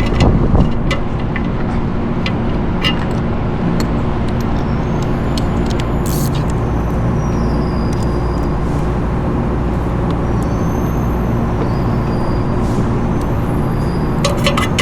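A steady low machinery drone with a few held tones, with scattered light metallic clicks and taps from hand tools working on the fan's nuts and housing.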